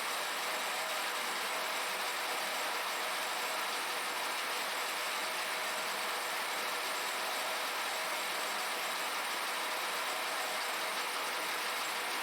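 Steady, even machine noise from workshop equipment: mostly a high hiss with faint whining tones, with no change in level throughout.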